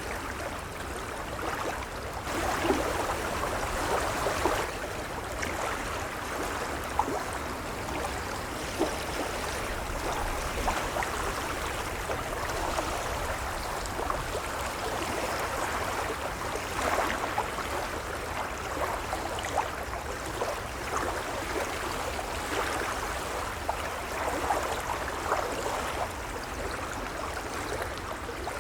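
Gentle waves lapping: a steady wash of water full of small splashes, swelling now and then.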